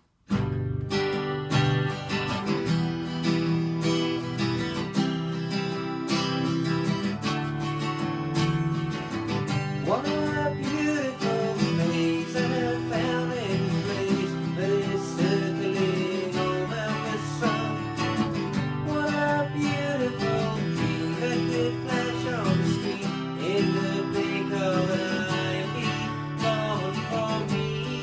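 Acoustic guitar strummed in steady chords, with a voice singing a melody over it from about ten seconds in; the music starts abruptly right at the beginning.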